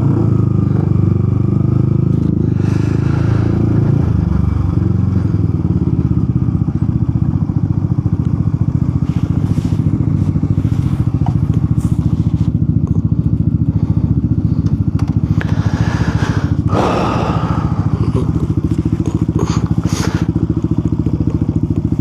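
Motorcycle engine running steadily, its firing pulses a fast, even beat throughout.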